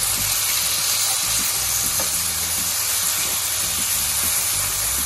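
Tomato and spice masala sizzling steadily in a nonstick frying pan as a spoonful of yogurt is stirred through it, with faint scrapes and taps of the spatula.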